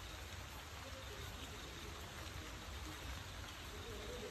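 Steady rain falling on forest foliage: an even, continuous hiss.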